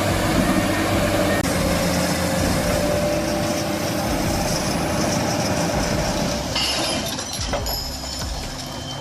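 A heavy vehicle's engine running steadily under load, a droning rumble. A higher hiss joins about two-thirds of the way through.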